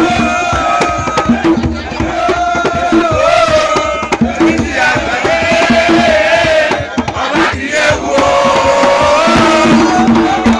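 A group of voices singing a chant together over drumming, with crowd shouts mixed in.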